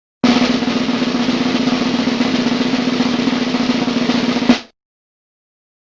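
Snare drum roll played as a sound effect, a fast even roll of about four seconds that ends on one sharp accent and then stops abruptly.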